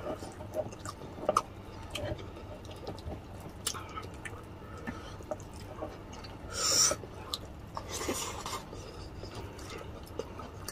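Close-up wet chewing and lip-smacking of people eating braised pork hock and rice, with scattered small clicks. There is a short louder noisy burst about two-thirds of the way through.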